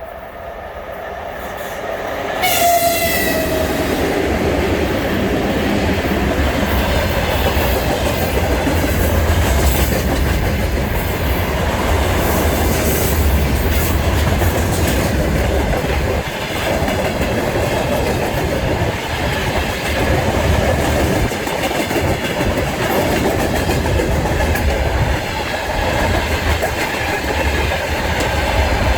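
A train approaches and its locomotive sounds a short horn blast about two and a half seconds in, the pitch sliding down as it passes. A long train then runs past close by, wheels clattering over the rail joints with a heavy rumble.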